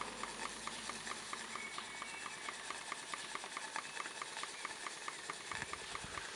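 Model vertical steam engine with a 1.5-inch bore and 1.25-inch stroke, based on a Stuart No. 4, running quietly on steam with an even, rapid beat.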